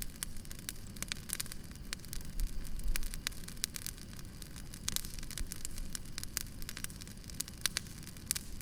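Wood fire crackling: irregular sharp pops and snaps several times a second over a steady low rumble of the burning.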